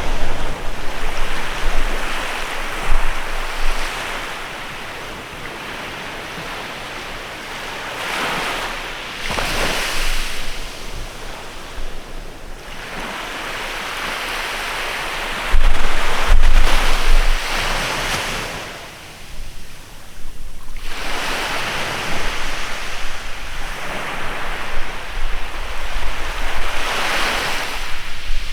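Waves washing onto a beach in repeated swells of surf, each rising and falling over several seconds. Wind buffets the microphone now and then, loudest about halfway through.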